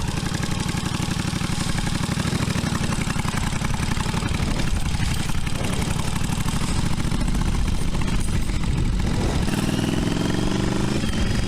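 1982 Yamaha Virago 750's V-twin engine running with an even, rapid beat. About nine and a half seconds in, its pitch rises as it revs up.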